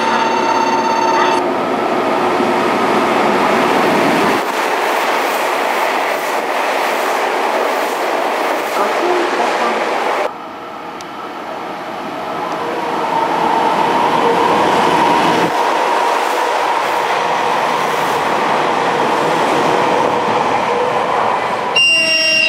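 Electric trains running past and into stations: the steady running noise of a passing train, then, after an abrupt cut to a quieter level about ten seconds in, the sound building as another train approaches the platform. A brief set of steady pitched tones sounds near the start and again near the end.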